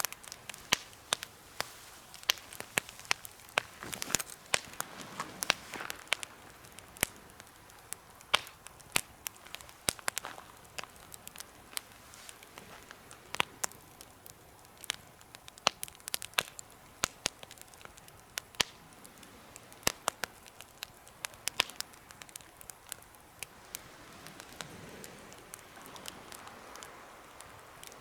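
Wood fire crackling in a homemade fire pit: sharp, irregular pops and snaps, several a second, over a soft hiss of flame.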